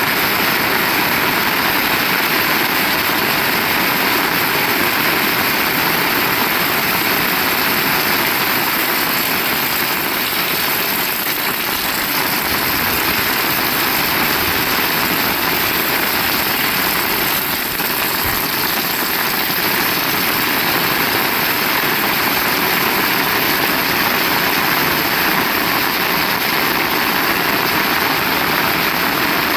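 Heavy rain pouring down, a dense, steady hiss with no breaks.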